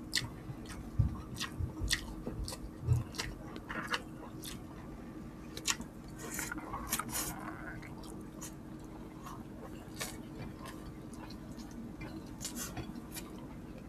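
Close-miked chewing of chicken and rice, with wet lip smacks and short mouth clicks scattered throughout.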